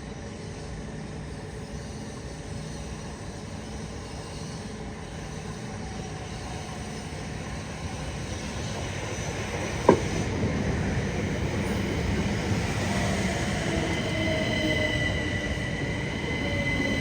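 A train running in on the rails, growing louder from about halfway, with a single sharp click about ten seconds in. High-pitched squealing from the wheels or brakes follows, several steady tones with some sliding slowly lower.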